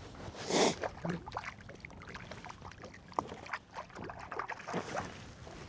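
Scattered small knocks and clicks from handling in a kayak, with a brief swish about half a second in.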